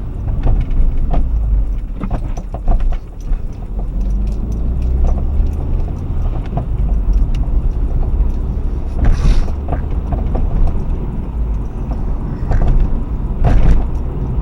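R55 BMW Mini on the move: a steady low road rumble with scattered short knocks from the front suspension, a fault the owner has not traced despite checking the newly fitted parts for looseness. Two louder rushing bursts come about nine seconds in and near the end.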